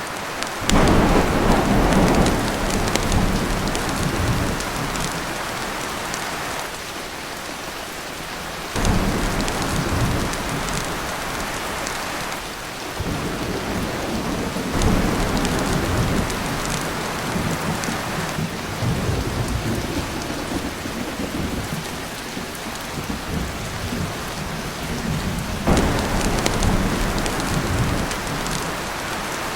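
Heavy rain drumming steadily on a tin roof. Thunder rolls in four times, each with a sudden loud rumble that dies away over several seconds.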